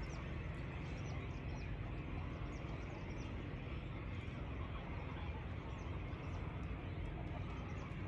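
Small birds chirping, many short high calls scattered irregularly, over a steady low rumbling hiss.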